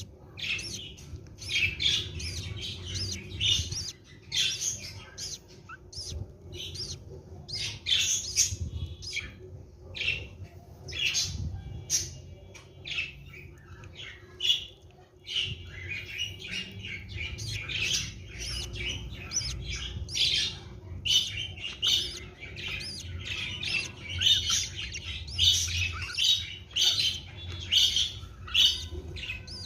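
Budgerigars chirping and squawking, many short overlapping calls in continuous chatter.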